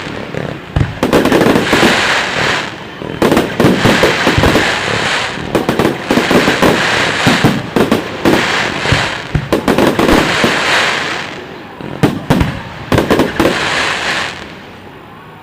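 Fireworks display: rapid bangs and crackling bursts coming in dense waves, with short lulls every two to three seconds.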